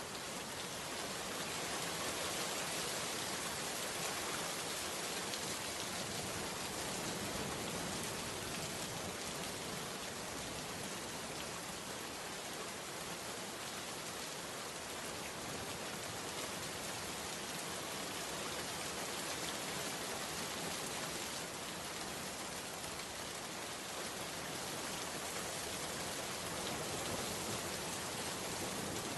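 Steady rain falling, an even hiss that swells in at the very start and then holds level.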